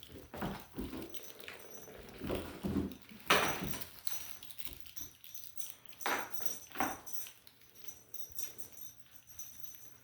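Kittens scuffling and batting their toys about: irregular scrapes, rustles and knocks, the loudest about three seconds in.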